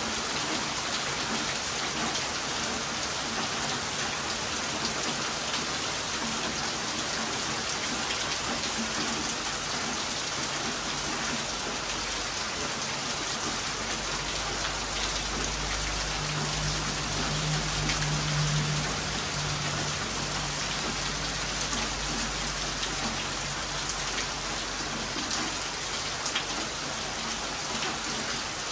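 Heavy rain falling steadily. A low rumble swells and fades through the middle.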